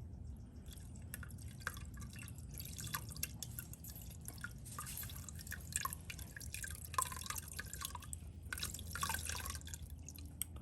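Fluid draining from an old engine's bottom end, falling in many irregular drips and splashes that thicken through the middle. It is what appears to be oil, with water in the engine: a sign of coolant contamination.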